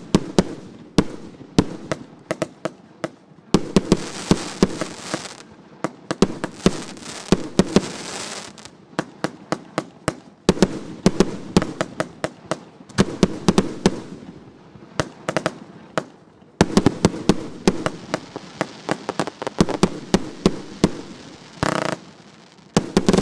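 A 100-shot, 1.25-inch firework battery (cake) firing: rapid sharp bangs in runs, with stretches of crackling hiss between them.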